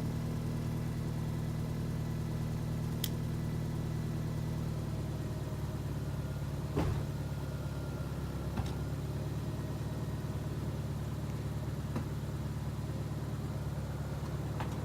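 Rebuilt 1993 Acura Integra's B20-block, B16-head four-cylinder engine idling steadily, the idle still set a little high until the idle control valve is readjusted. A few faint clicks sound over it.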